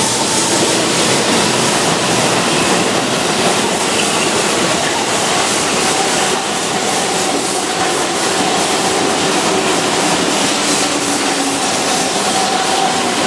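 Keihan 2600-series electric commuter train running past at close range on a curve, a steady rolling rumble of wheels on rail with a faint high tone running through it.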